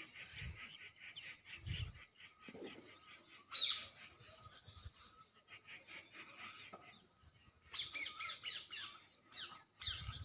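Birds chirping: quick, high, falling chirps in clusters, with a busier burst about three and a half seconds in and again near the end. A few soft low thumps are heard now and then.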